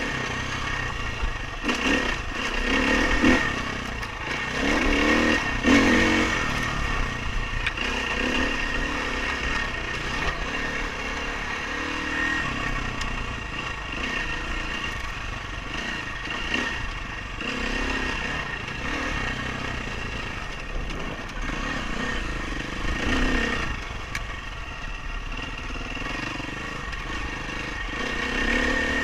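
Dirt bike engine being ridden, revving and easing off so its pitch rises and falls, with the loudest revs between about two and six seconds in.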